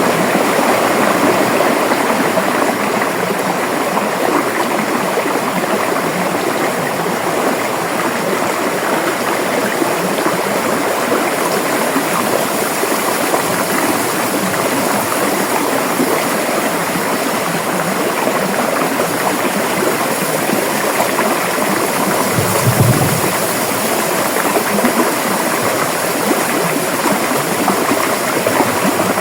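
River water flowing in a steady, even rush. There is one brief low thump about three-quarters of the way through.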